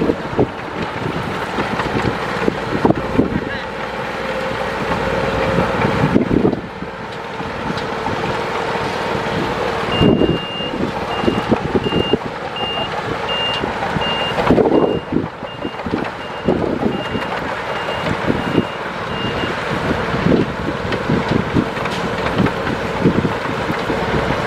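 Heavy earthmoving machine's diesel engine running under load, with repeated short knocks. From about ten seconds in, a reversing alarm beeps about twice a second for around ten seconds, then stops.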